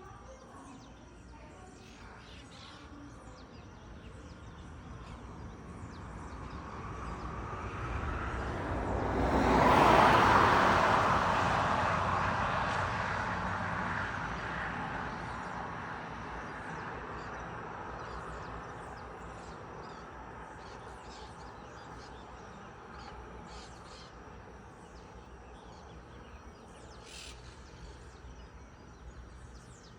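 Small birds chirping in short, scattered calls, while a passing vehicle's noise swells up, is loudest about ten seconds in, and slowly fades away.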